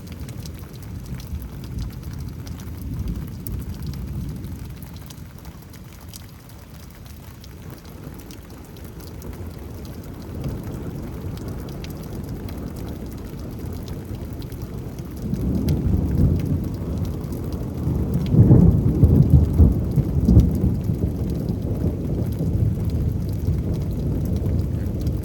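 Loud thunder from a nearby lightning strike rolling over steady rain: a low rumble that swells about fifteen seconds in, peaks a few seconds later and keeps rumbling.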